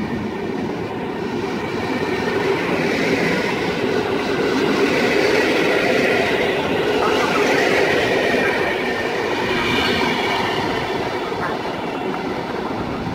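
Passenger coaches of a departing PKP Intercity train rolling past at low speed, wheels running over the rails. The sound grows louder toward the middle and fades near the end as the last coach draws away.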